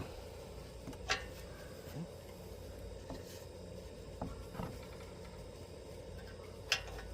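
Scattered light metal clicks and knocks of hand tools working a 5/16 nut loose on an air-conditioner condenser fan motor, about five over several seconds, over a steady faint hum.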